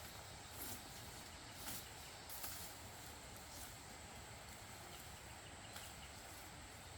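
Faint outdoor background with a thin steady high tone and a few brief, sharp knocks spread through it.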